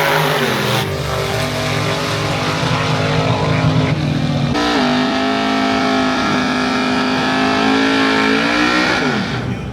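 Drag-racing vehicle's engine running hard at high revs. About halfway through the sound shifts abruptly and holds a steady high note, which then falls in pitch as the engine winds down near the end.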